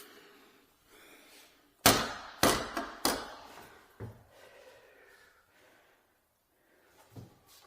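A handful of sharp knocks and clatters on wood: three close together about two seconds in, another a second later and one more near the end, with quiet between.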